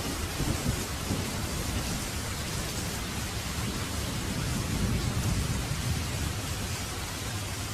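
Heavy rain falling steadily, under a low rumble of thunder that swells about halfway through.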